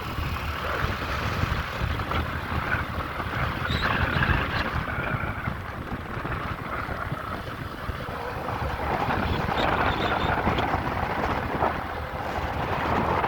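Motorcycle engine running at road speed, with wind buffeting the microphone.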